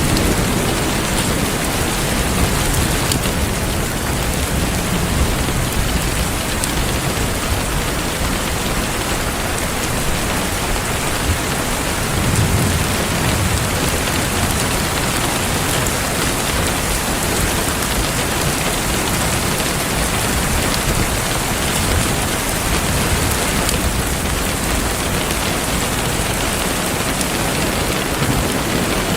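Heavy rain falling steadily, with low thunder rumbling now and then, most strongly about twelve seconds in.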